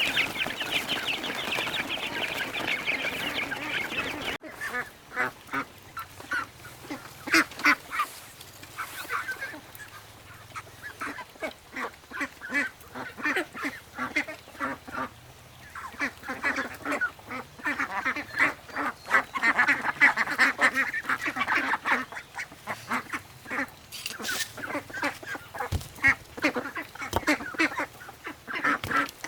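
A flock of ducks quacking, many calls overlapping. The calling is dense for the first four seconds, breaks off abruptly, then goes on in short, irregular quacks.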